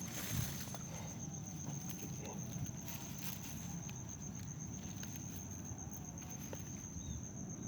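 Insect's steady, high, pulsing trill, with faint scattered clicks and rustles.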